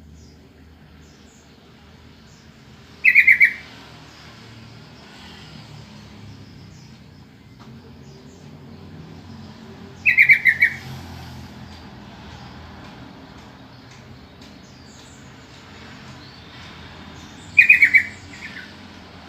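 Sooty-headed bulbul (trucukan) giving a short bubbly call of a few quick notes, three times about seven seconds apart, over a faint low hum.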